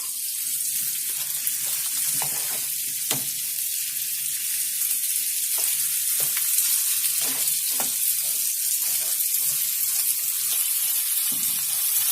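Onions, cherry tomatoes and capsicum frying in hot oil and sauce in a pan: a steady sizzle, with scattered light clicks as they are stirred.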